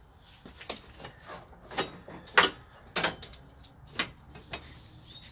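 Hand work on car front-end parts during an A/C condenser refit. A string of sharp plastic and metal clicks and knocks, about eight in all, the loudest about two and a half seconds in and another pair around three seconds.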